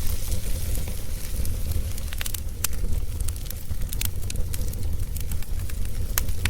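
Wood fire burning, with sharp irregular crackles and pops over a steady low rumble of flames.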